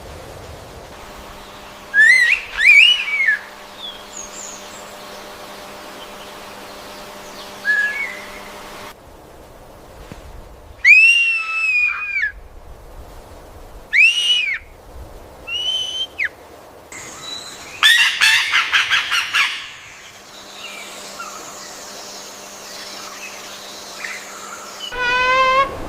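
Calls of several different birds, one after another: short gliding whistled notes, loud arched squawk-like calls, a rapid run of notes, and a wavering trill near the end.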